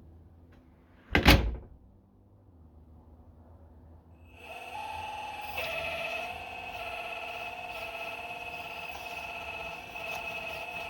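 A sharp knock about a second in, then after about four seconds the 4200XL excavator's drive starts up and runs with a steady high whine made of several fixed tones.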